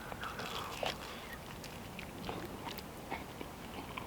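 A person biting into and chewing a slice of crispy-shelled pan-cooked pizza: quiet, scattered crunches and clicks.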